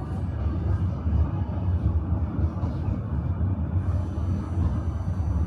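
Tram running on rails, a steady low rumble heard from inside the car, with a faint high whine over it.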